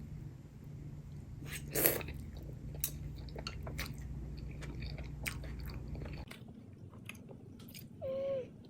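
Close-up eating sounds: chewing and biting with scattered crunches and small clicks. A low steady hum runs underneath and cuts off about six seconds in, and a brief pitched sound comes near the end.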